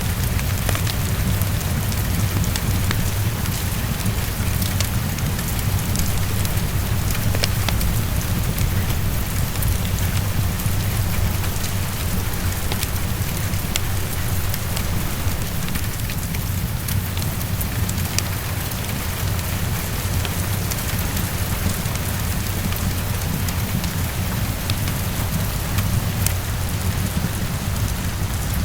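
Heavy rain falling steadily against a window, with scattered sharp ticks and a steady deep rumble underneath.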